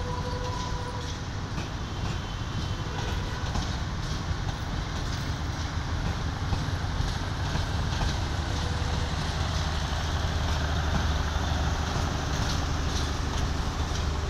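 Bangladesh Railway passenger coaches rolling slowly past on the track: a steady low rumble with scattered clacks of the wheels over rail joints, growing a little louder in the second half.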